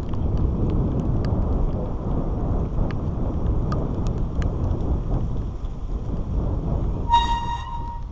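Low, steady rumble of wind buffeting the microphone, with scattered small clicks. Near the end a short steady tone with overtones sounds for about a second.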